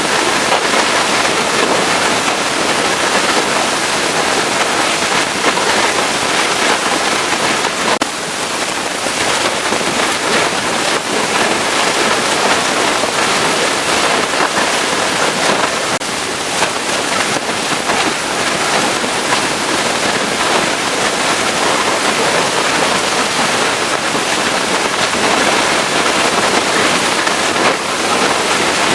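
Pressure washer spraying water onto a truck: a loud, steady hiss of the jet, with a brief dip about eight seconds in and again around sixteen seconds.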